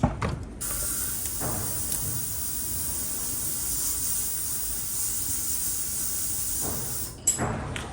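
A steady spray hiss lasting about six and a half seconds, cutting off sharply near the end, with a few light handling knocks around it.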